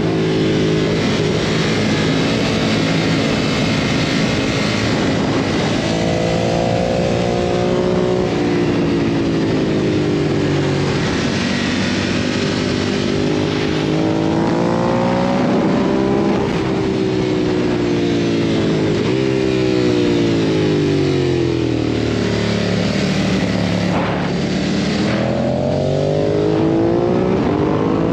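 A 2017 Ducati Monster 1200S's 1198 cc L-twin at racing speed, revving hard up through the gears and sweeping back down as the rider brakes for corners, again and again. A steady rush of wind runs beneath the engine.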